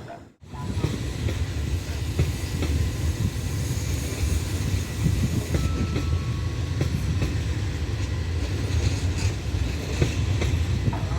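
A train running past, a steady low rumble with its wheels clacking over the rail joints, starting about half a second in.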